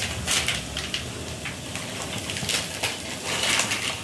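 Onion-tomato masala paste with spice powders crackling in oil in a kadai: a steady crackle with scattered sharper pops.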